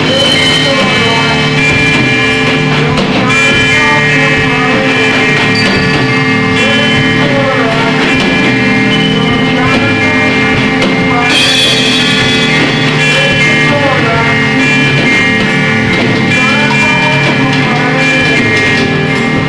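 Loud, dense experimental noise music: a wall of layered, steady droning tones with swooping rise-and-fall pitch bends that recur every couple of seconds.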